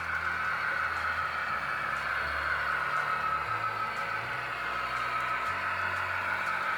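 Steady running noise of a train: an even hiss with a low hum underneath that shifts in pitch every second or two.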